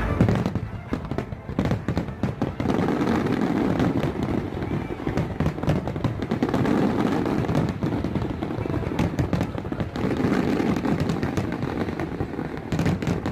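Fireworks going off in quick succession: a dense run of bangs and crackles that carries on without a break.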